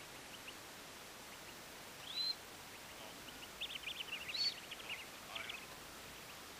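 Birds calling over a faint steady hiss: a short rising call a couple of seconds in, then a quick burst of chirps and another call about halfway through.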